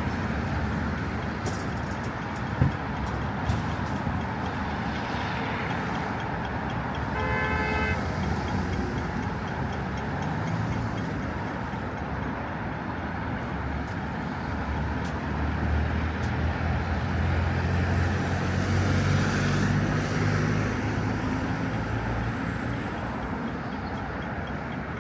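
Steady city road traffic, with one short car horn toot about seven seconds in. Later a passing vehicle's low engine drone swells and then fades.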